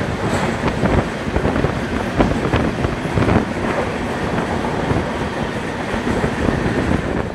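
Passenger train running at speed, its wheels rumbling and clattering over the rails with irregular sharp clicks.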